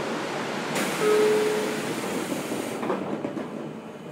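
Running noise inside a JR Kyushu 811 series electric train car, with a sudden hiss of noise about a second in and a short single steady tone for under a second. The noise dies down near the end.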